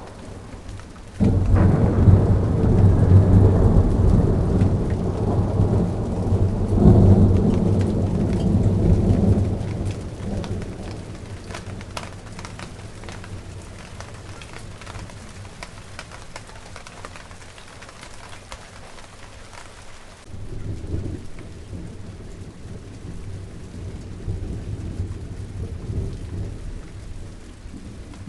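Steady rain falling on garden plants, with thunder: a loud low roll that starts suddenly about a second in, swells again around seven seconds and dies away by about ten seconds, then a softer roll of thunder from about twenty seconds.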